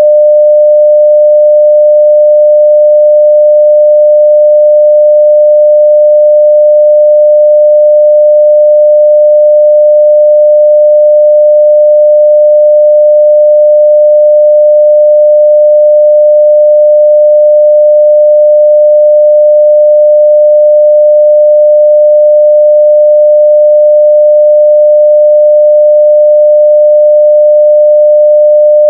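A steady 600 Hz sine-wave test tone at full level (0 dB), held unchanged.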